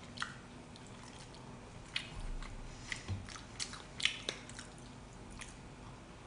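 Close-up eating sounds: biting and chewing meat off a braised pig's trotter (jokbal) bone, with scattered short wet smacks and clicks, busiest in the middle.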